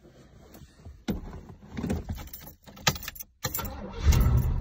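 Keys jangling and clicking in the ignition of an Oldsmobile Cutlass G-body, then the starter cranks and the engine catches and runs with a loud low rumble near the end.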